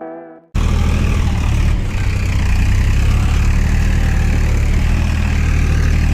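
A heavy engine running steadily and loudly. It cuts in abruptly about half a second in, right after fading music.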